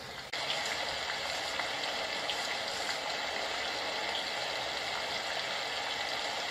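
HoMedics portable SoundSpa sound machine playing one of its nature-sound tracks, a steady rushing-water hiss that comes in about a third of a second in.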